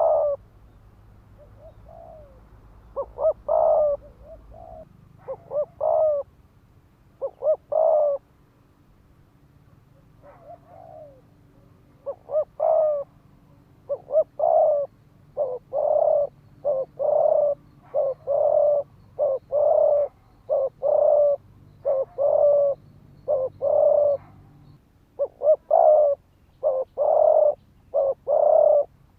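Spotted dove cooing. Scattered coo phrases come first, then about halfway in a fast, steady run of short coos, roughly one a second, the excited rapid cooing ('thúc gù') of a decoy male.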